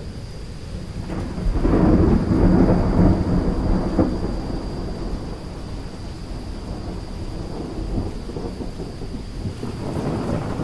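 Thunderstorm: a long rolling peal of thunder builds about a second and a half in, is loudest for the next couple of seconds, then fades, over a steady hiss of rain. Another rumble of thunder starts near the end.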